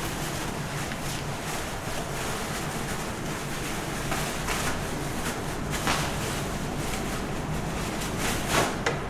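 Steady rushing background noise with a few light clicks and knocks of parts and tools being handled, the sharpest near the end.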